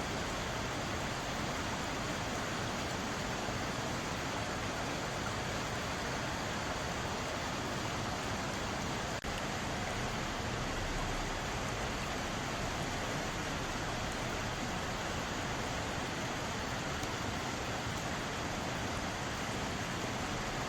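Mountain valley stream: water rushing steadily over rocks, an even continuous hiss of flowing water, with a split-second dropout about nine seconds in.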